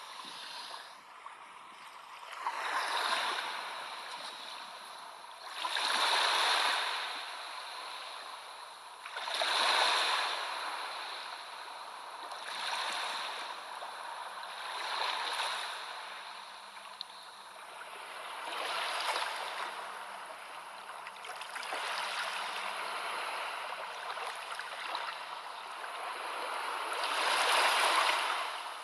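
Sea waves washing in, a rushing surge that swells and falls back every few seconds.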